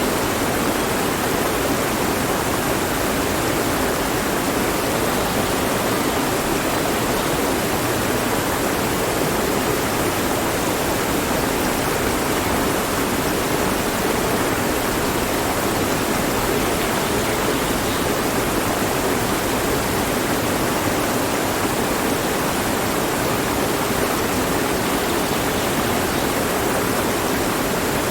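Mountain stream rushing over rocks, a steady even flow of water with no change.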